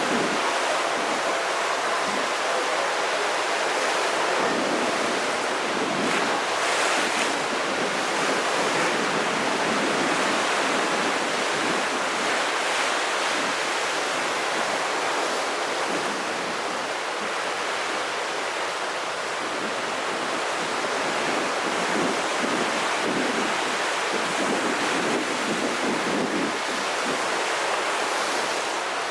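Rough sea surf breaking continuously on the shore, with wind; one wave surges louder about seven seconds in.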